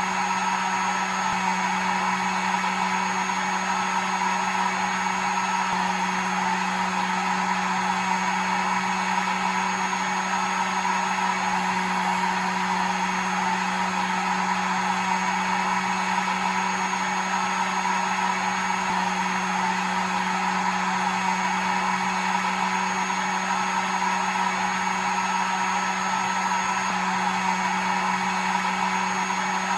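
Hair dryer running steadily: an even blowing rush with a constant motor hum, used as a soothing noise to lull a baby to sleep.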